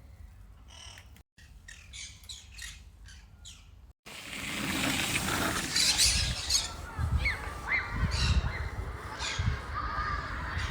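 Conures squawking and chirping with harsh calls, faint at first and louder from about four seconds in.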